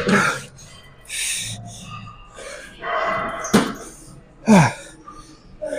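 A man breathing hard and grunting through a heavy weightlifting set: hissing exhales and short grunts that drop in pitch, with a sharp knock about three and a half seconds in.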